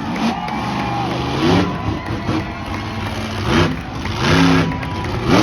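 Monster truck engine revving hard again and again, its pitch climbing and dropping in several surges, the loudest one near the end.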